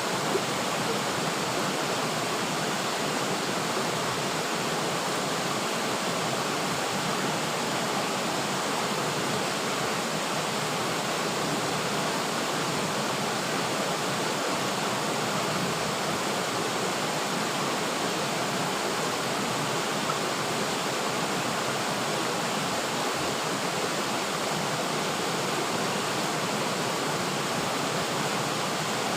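River water flowing and rushing in a steady, even wash.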